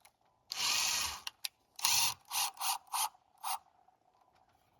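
A power driver run in bursts while backing out a screw: one long run of about three-quarters of a second, then a shorter one and four quick pulses.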